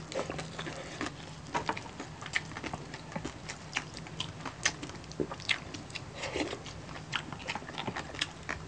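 Chewing and biting of crispy lechon belly, roast pork belly with thin crackling skin: irregular sharp crunches and wet mouth clicks, several a second.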